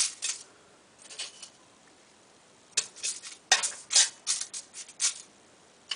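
A spoon scraping and tapping in a foil-lined iron wok, spreading sugar out over the foil: a few short scrapes in the first second and a half, then a quick run of scrapes and taps from about three to five seconds in.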